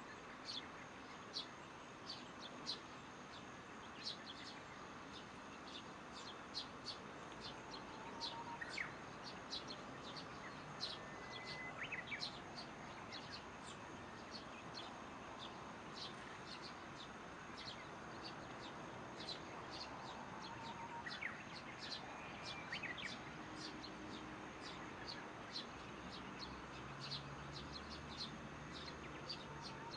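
Small birds chirping at dusk: short high chirps repeated two or three times a second, with a few lower sweeping calls now and then, over a steady faint hiss of insects.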